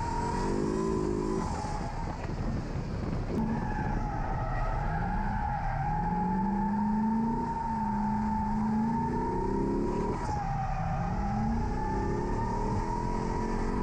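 C6 Corvette's LS V8 revving up and down while drifting, with a steady high tire squeal from the rear tires sliding. The engine pitch climbs and falls several times as the throttle is worked.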